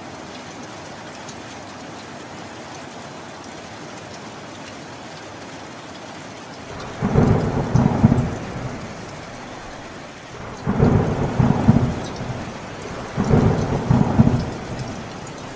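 Steady rain falling, with three rolls of thunder rumbling in one after another in the second half, each swelling up and dying away over about two seconds.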